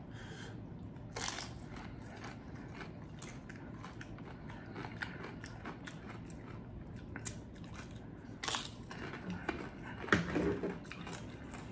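A person chewing and biting food close to the microphone, a close run of small crunchy clicks with a few sharper crunches. A short vocal sound comes about ten seconds in.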